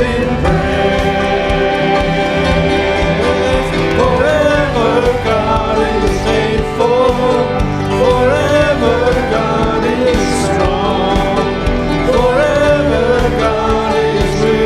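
Church worship music: singing over steady instrumental accompaniment, the voices coming in about four seconds in.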